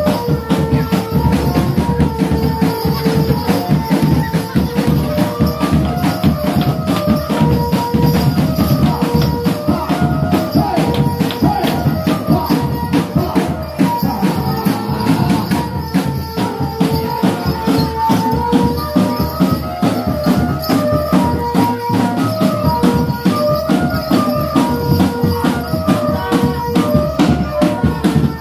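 Live barongan accompaniment music: dense, fast percussion with jingling, shaken sounds over a repeating melody of held notes that step up and down.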